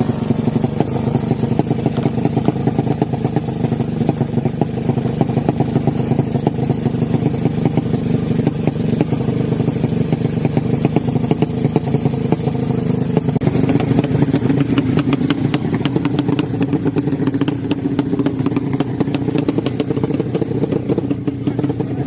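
Tuned 200cc drag-racing motorcycle engine running loudly, with a rapid crackling patter of firing pulses. Its tone shifts about thirteen seconds in.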